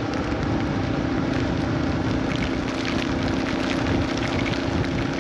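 Rain falling, with many small drops ticking on nearby surfaces over a steady low hum.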